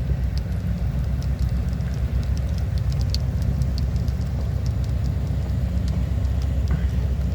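VIA Rail passenger train pulling out of the station and rolling past, a steady low rumble with scattered light clicks.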